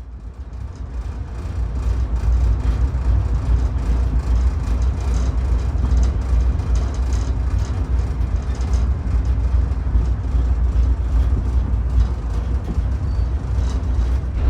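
Steady rumble and running noise of a ride aboard the park's shuttle tram, fading in over the first couple of seconds.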